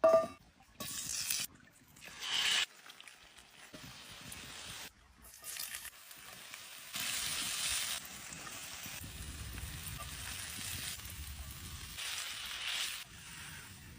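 Chicken sizzling as it fries, heard as a series of short clips that cut in and out abruptly.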